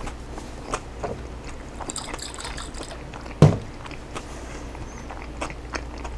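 Close-up eating sounds: chewing, with light clicks of a utensil against a dish, and one heavier thump about three and a half seconds in.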